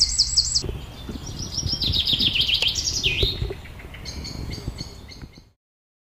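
Birds singing: several rapid, repeated high-pitched trills one after another, over a low rumble, cut off abruptly about five and a half seconds in.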